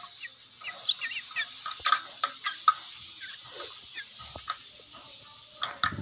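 Hand-fed nestling birds begging with short, wavering chirps and squawks, two or three a second at first, then sparser.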